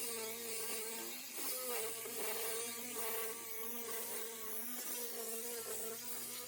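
A small electric power tool's motor running steadily with a buzzing hum that wavers slightly in pitch, over a steady hiss.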